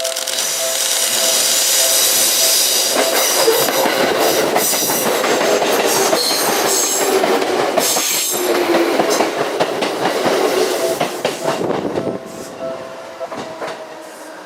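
Seibu 4000 series electric train running past close by: wheels rumbling and clicking over the rail joints, with a high wheel squeal, loudest in the middle and fading near the end.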